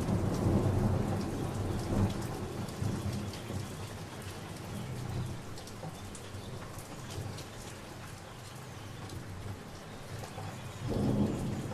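Thunderstorm: steady rain with scattered drop ticks, and low rolling thunder that is loudest in the first couple of seconds, fades, and swells again briefly near the end.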